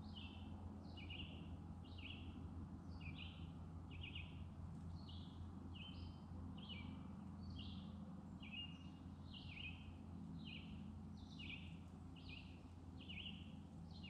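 A bird calling over and over in short high chirps, about one and a half a second, over a faint steady low hum.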